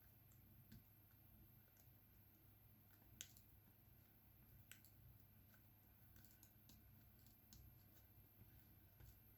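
Faint, scattered clicks of a diamond painting pen tapping small resin drills onto the canvas, with two sharper ticks about three and five seconds in, over a low steady hum.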